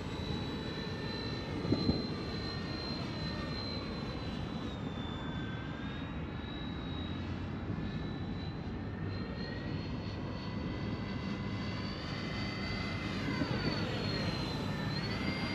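Electric ducted fans of a Freewing A-10 80 mm RC jet whining in flight, a steady high whine whose pitch dips briefly about five seconds in and rises near the end with the throttle.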